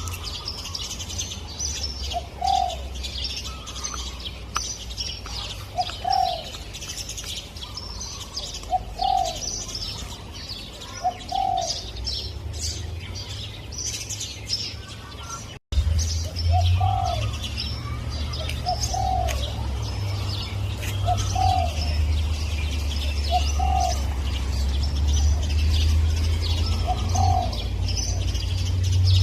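Spotted dove cooing, short arched notes repeated every two to three seconds, over steady chirping from small birds and a low hum. The audio drops out briefly about halfway through at an edit.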